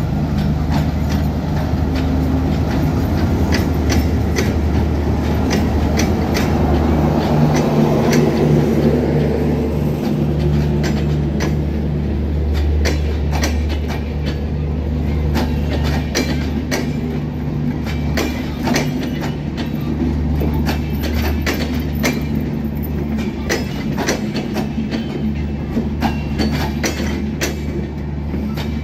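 A diesel locomotive passes close with its engine droning steadily. Its passenger coaches follow, wheels clicking over the rail joints in a clickety-clack.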